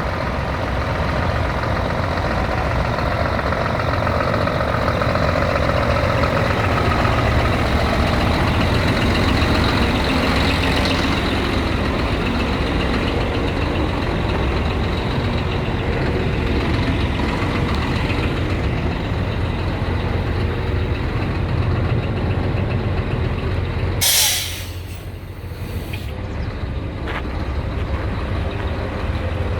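Scania truck running steadily, with a sharp hiss of its air brakes about three-quarters of the way in, after which the running sound drops to a lower level.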